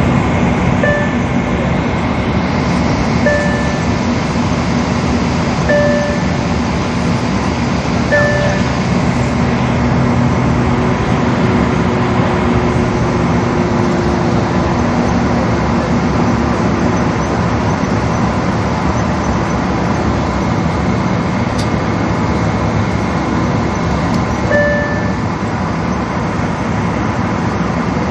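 Steady running noise of a vehicle in motion with a low hum, broken by short beeps: four about two and a half seconds apart in the first nine seconds, and one more near the end.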